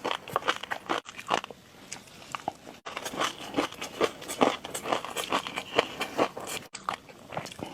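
Close-up crunchy chewing: a dense run of quick bites and crunches, broken by a few abrupt dropouts.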